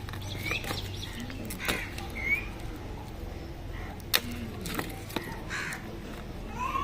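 Sharp clicks and light rustles of the iPhone 15's retail box and packaging being handled, over a low steady hum. A bird calls a few times in the background, short calls that bend in pitch.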